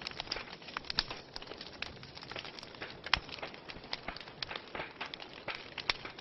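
Fireplace fire crackling: a steady hiss of burning with dense, irregular pops and snaps, and one sharp, louder pop about three seconds in.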